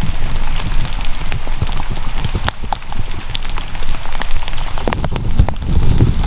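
Steady rain falling, its drops ticking sharply on a surface close by, with low rumbling thumps growing near the end.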